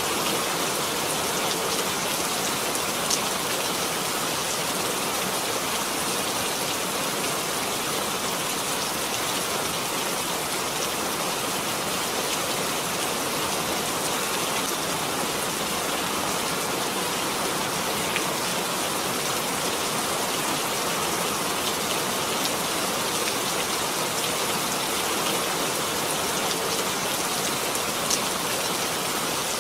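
Steady, even rain falling, with a few sharper drop ticks standing out now and then.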